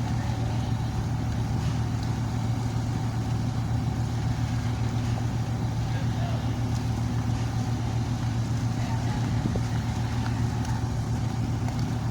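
Steady low drone of a ship's diesel engine running during docking, an even hum with no change in pitch or level.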